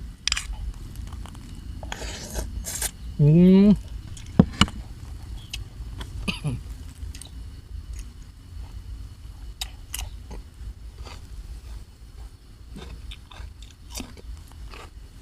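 Close-up eating sounds of a person chewing and crunching on spicy seafood papaya salad with rice noodles, with scattered wet clicks and crunches. About three seconds in there is a short, loud, rising vocal sound.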